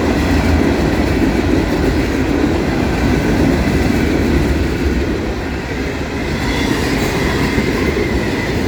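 Freight cars of a passing mixed freight train rolling by close at hand: a steady, loud rumble of steel wheels on the rails.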